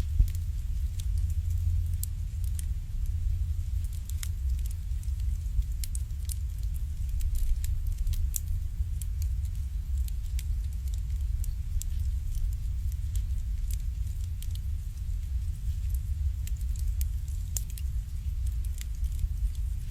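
Wood fire burning in an irori hearth, crackling with scattered sharp pops over a steady low rumble; one louder pop just after the start.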